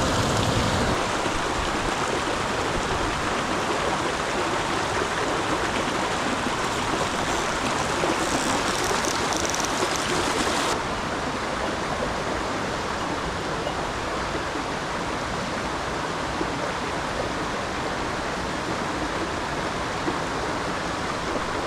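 River water rushing and splashing over stones in a steady, even wash. It drops slightly in level about halfway through.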